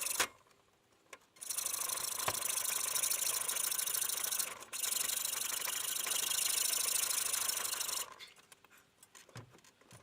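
Power tool working wood, running steadily with short stops: once just after the start, once about halfway, and for the last two seconds.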